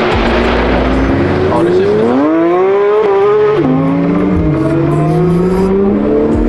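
Car engine accelerating hard, revs climbing, dropping sharply at a gear change about three and a half seconds in, then climbing again.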